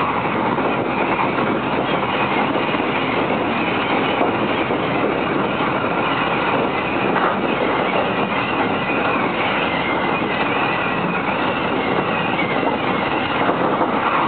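Electric commuter train running at speed, heard from inside the carriage: the steady rumble and hiss of wheels on the rails.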